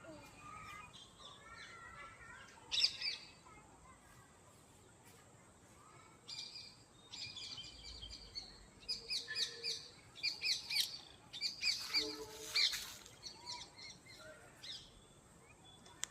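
Small birds chirping faintly: one short call about three seconds in, then a busier run of quick, high chirps from about six to fourteen seconds in.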